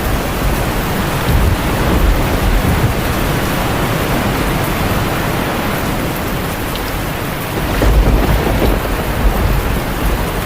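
Steady heavy rain with low rumbles of thunder under it, one rumble swelling about eight seconds in.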